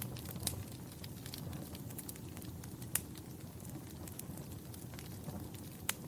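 Wood fire crackling: a steady low rumble of burning with frequent small pops and a few sharper snaps, the loudest about half a second in, about three seconds in and near the end.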